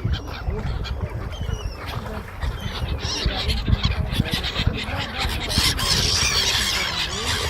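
A mixed flock of ducks and seagulls calling and honking over one another, with a steady low rumble underneath.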